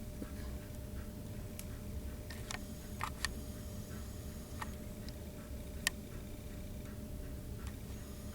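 A handful of short, sharp clicks and ticks at uneven intervals, over a steady low hum.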